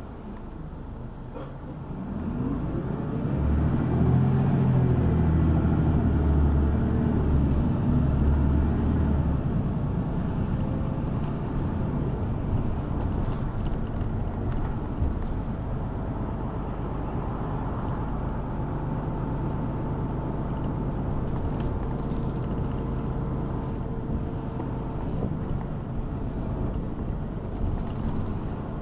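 City bus engine pulling away, rising in pitch and loudest for several seconds, then easing into steady running with road noise, heard from inside the cabin.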